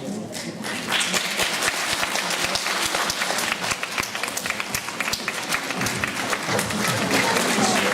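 Audience applauding, dense clapping that swells about a second in, with music starting faintly near the end.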